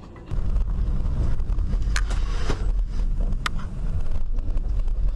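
A car driving, heard through a dashcam: a steady low road and engine rumble with some wind noise. A sharp click comes about two seconds in, and another about a second and a half later.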